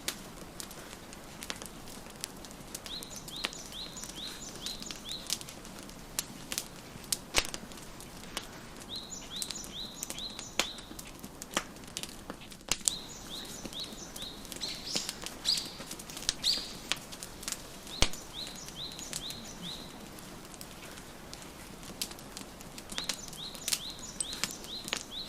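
Wood fire crackling in a fireplace, with scattered sharp pops. A bird sings over it, repeating short runs of quick high chirps every few seconds.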